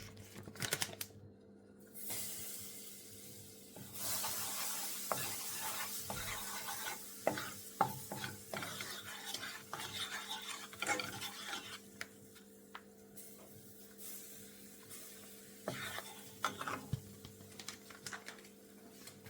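Curry powder sizzling in hot oil in a pot while a spoon stirs it, with clicks and scrapes of the spoon against the pot. The sizzle starts about two seconds in and gets louder at about four seconds: the curry is being 'burned', toasted in the oil before the meat goes in.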